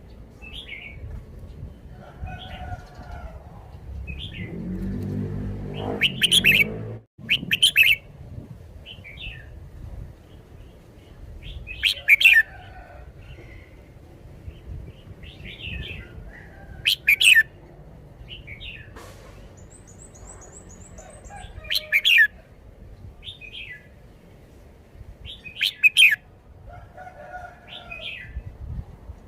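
Red-whiskered bulbul singing: short, loud, bright song phrases repeated every four to five seconds, with softer chirps in between. A low rising hum runs underneath for a few seconds early on.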